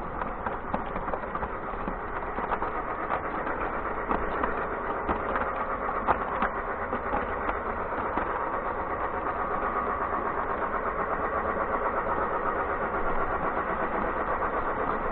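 Battery-powered O scale toy train running on its track while pulling a string of cars: a steady motor whir with scattered clicks and rattles, growing slightly louder.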